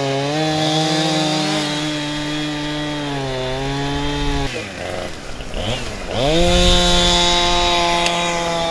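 Chainsaw engine running at high revs while cutting wood, its pitch sagging under load, then dropping to a low idle about four and a half seconds in and revving back up a second and a half later.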